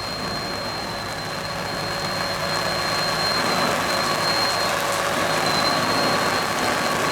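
Steady engine drone under a dense, continuous hiss, with a constant thin high whine. It grows a little louder about two and a half seconds in.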